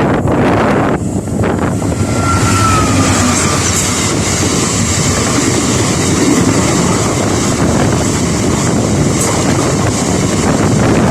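A train passing close by on the line: a loud, steady rush of wheel and rail noise, with wind buffeting the microphone. A faint falling tone comes in about two seconds in.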